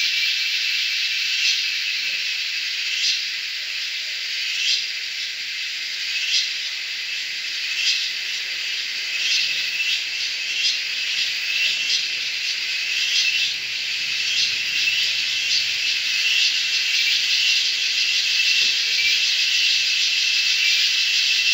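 Dense, high-pitched insect chorus, a steady shrill hiss with regular pulses about every one and a half seconds through the first half, coming slightly faster as it goes on.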